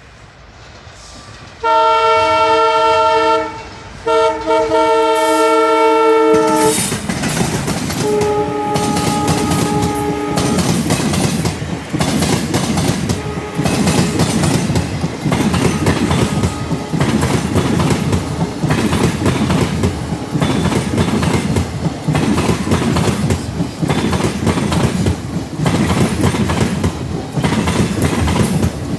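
A train horn sounds two long blasts, each about two seconds, then the train passes with its wheels clacking over the rail joints in a steady run of clicks. A third, fainter and slightly lower horn blast sounds a few seconds into the passing.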